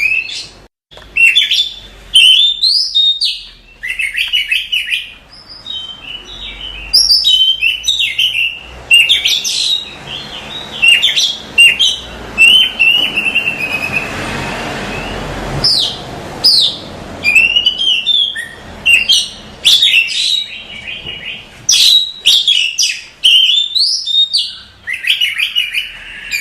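Oriental magpie-robin (kacer) singing a fast, varied song of chirps and whistled notes in quick phrases with short pauses between them: a master recording used to tutor other songbirds.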